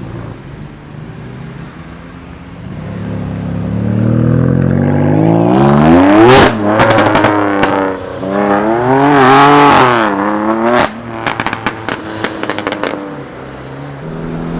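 Modified car accelerating hard: the engine note climbs steeply, drops at a gear change and climbs again, then a quick string of exhaust pops and crackles follows as the throttle closes near the end.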